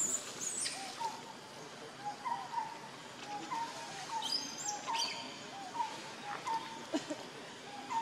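Birds calling in the surrounding forest: a run of short, clear notes repeating about every half second, with sharp high chirps around four and five seconds in.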